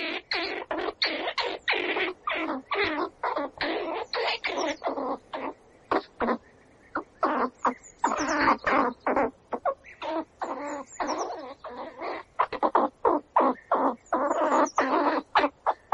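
An animal calling in a rapid series of short, harsh calls, about three or four a second, with a few brief pauses and some thin high chirps mixed in.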